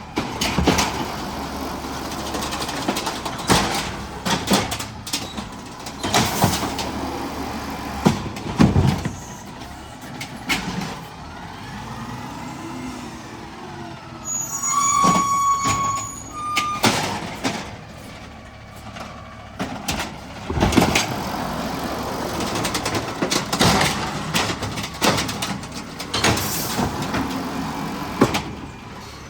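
Garbage truck working its route: the engine runs under repeated clanks and bangs, with a steady high beep lasting about a second near the middle and a shorter one just after.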